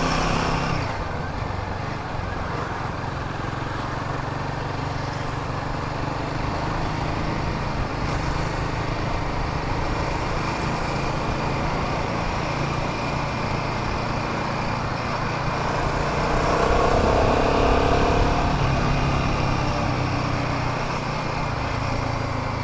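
Vehicle and traffic noise on the road: a steady engine hum under road and wind noise, with a louder tonal swell from another vehicle between about 16 and 18 seconds in.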